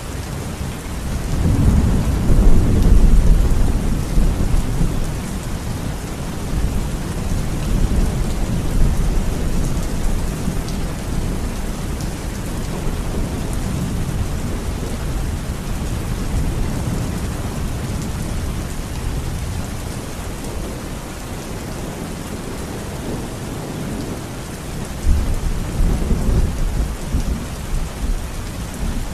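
Steady heavy rain with rolling thunder: a long low rumble swells about two seconds in and fades, and another rumbles near the end.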